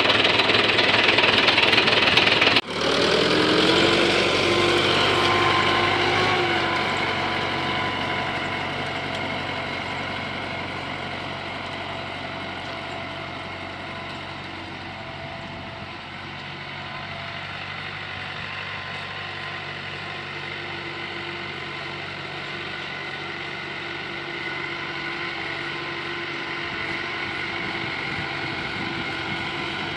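Tractor diesel engine running steadily under load while pulling a harrow. It breaks off abruptly about three seconds in, then fades gradually as the tractor moves away and holds at a lower level.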